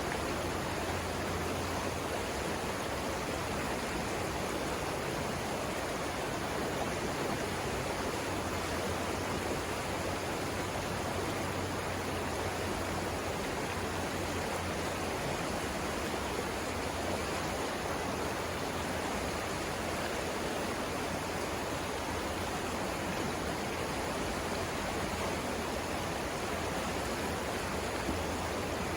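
Savannah River rushing over rapids: a steady, unbroken rush of flowing water.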